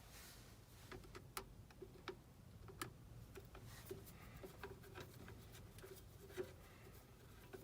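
Very faint, irregular light clicks and ticks of hand tools and electrical wire being handled while rewiring a furnace's safety-switch circuit.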